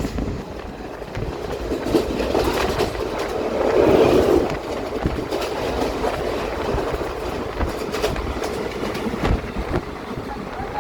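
Moving train heard from on board: a steady rumble of wheels on the track with irregular clacks and knocks, swelling in loudness about four seconds in.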